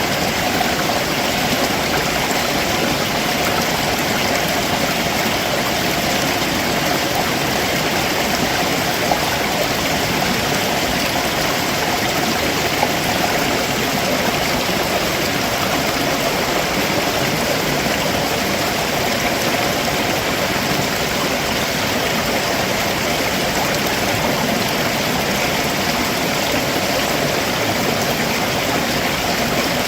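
A rocky stream running steadily over rocks below a waterfall, a constant rushing wash of water.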